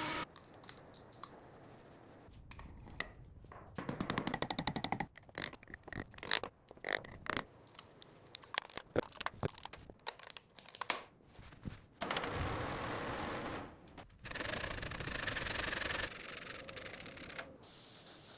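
Hand-tool rubbing and scraping on a workpiece: a run of irregular short strokes, then a steadier stretch of rubbing noise from about 12 to 16 seconds in.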